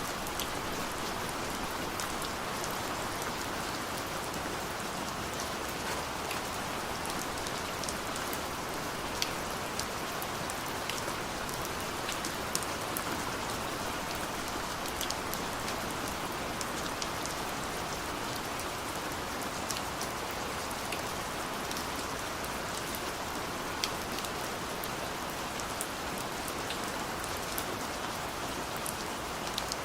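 Steady rain falling, an even hiss with scattered sharp drips of individual drops landing close by.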